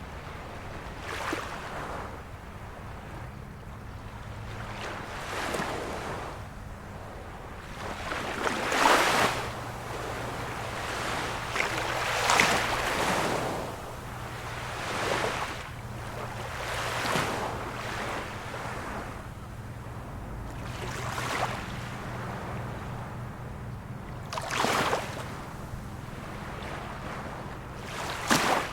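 Small waves of a calm sea washing onto the shore, each breaking with a splash every two to four seconds.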